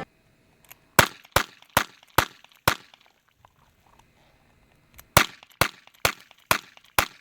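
Two strings of five pistol shots from single-action revolvers, Pietta Thunderball 8s in .38/.357, fired quickly at about two shots a second. Each five-shot string empties one revolver, with a pause of about two seconds between the two guns.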